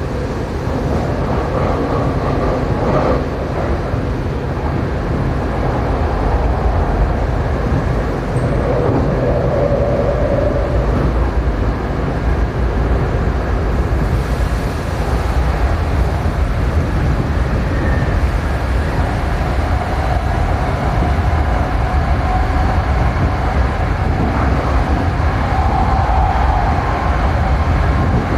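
Tokyo Metro 7000-series electric train running at speed between stations, a steady low rumble of wheels on rail heard from inside the car. A humming motor tone comes in after about twenty seconds and rises slightly in pitch.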